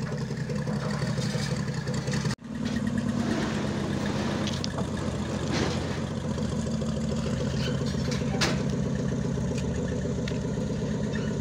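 1958 Chevrolet Biscayne's engine idling steadily as the car creeps forward onto the lawn, with a brief dropout about two seconds in.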